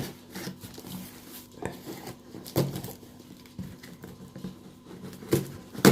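A kit package being opened and its parts handled: scattered rustles, taps and knocks, with several sharper knocks, the loudest near the end.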